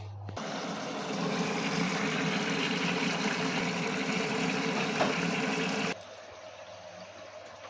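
LG WD-1054FB washing machine with water rushing into it, plausibly through the inlet valve as it fills. The rush starts abruptly about half a second in and drops to a much quieter water sound near the end.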